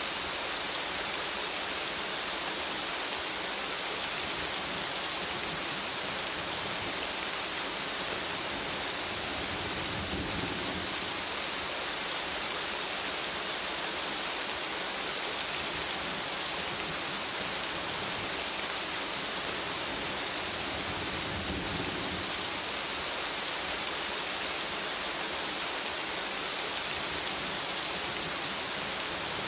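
Steady rain falling in a forest: a dense, even hiss of drops on leaves, with two brief low rumbles, about ten and about twenty-one seconds in.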